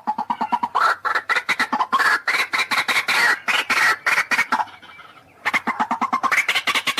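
White-breasted waterhen (ruak-ruak) calling: a fast, dense run of harsh croaking notes. It breaks off for about half a second after two-thirds of the way through, then starts again.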